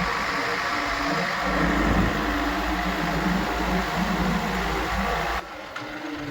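Diesel engine of heavy farm or earthmoving machinery running steadily, then dropping suddenly in level about five seconds in.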